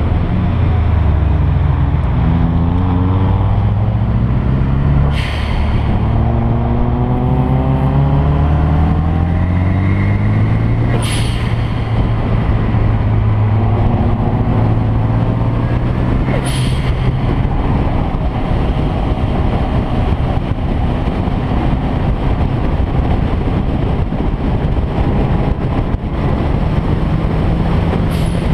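A performance car's engine accelerating hard through the gears, its pitch climbing and dropping back several times and then settling to a steadier run. Several short, sharp hisses are heard along the way.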